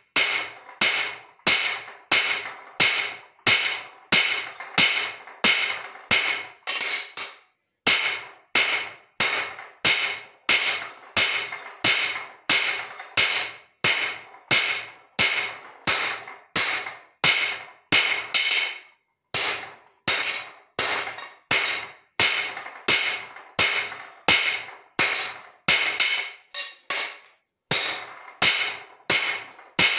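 A hand hammer striking leaf-spring steel on an anvil at about two blows a second. Each blow rings briefly, and the hammering pauses for a moment a few times.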